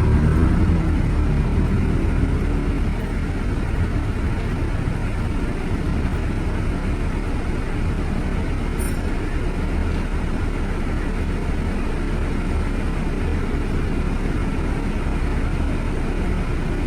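Steady low rumble of road vehicles: engine and tyre noise with no distinct single events.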